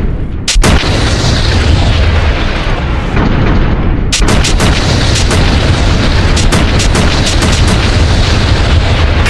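Bomb explosion sound effect: a long, loud low rumble, with a sharp crack under a second in and a run of crackles from about four seconds on.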